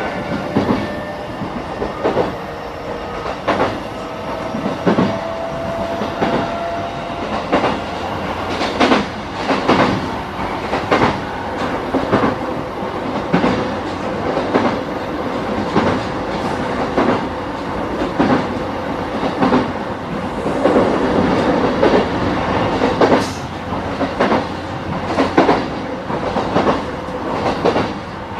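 JR East E233-5000 series electric train running at speed, heard from a motor car: a steady rumble with wheels clicking over rail joints about once a second, often in pairs. A faint rising whine sounds in the first several seconds.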